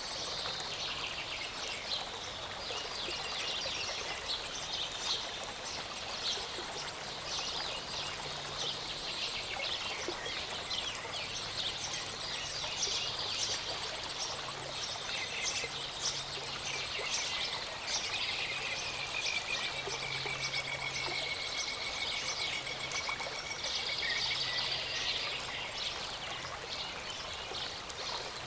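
Small mountain stream running steadily, with many birds chirping and singing over it; a long, even trill runs for several seconds in the middle.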